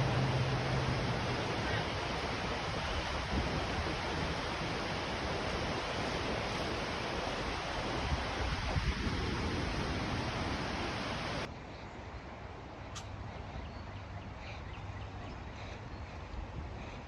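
Steady rushing outdoor noise that cuts off suddenly about eleven and a half seconds in, leaving a quieter background with a few faint clicks.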